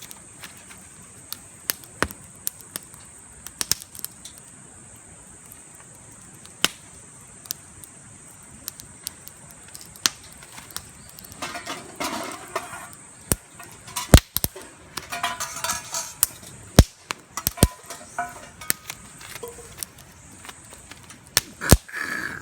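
Wood campfire crackling, with sharp, irregular pops and snaps over a steady high hiss. Bouts of rustling and clinking handling noise come about halfway through.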